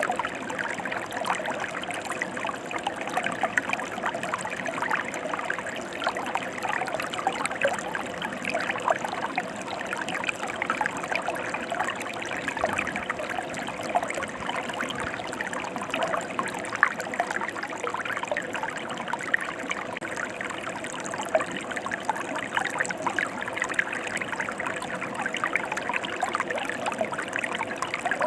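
Mountain stream running steadily over rocks: a continuous rush of water with many small splashes and gurgles throughout.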